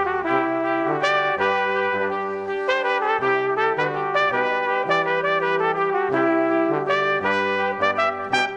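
Brass music: several instruments playing held notes together in chords over a lower bass line, the notes changing every fraction of a second to a second or so.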